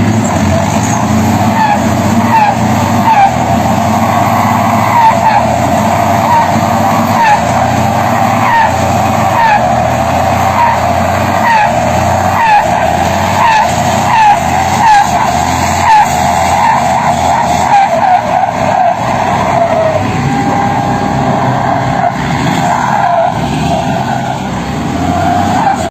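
Truck engine running hard under load, with a short squeal repeating a little more than once a second.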